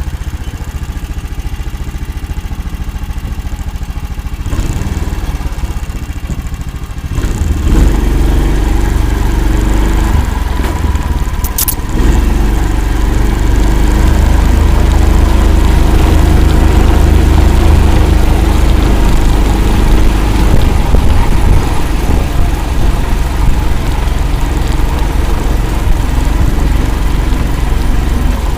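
Engine of an Akula all-terrain swamp vehicle running steadily, growing louder about seven seconds in and again a few seconds later. A brief sharp click sounds around the middle.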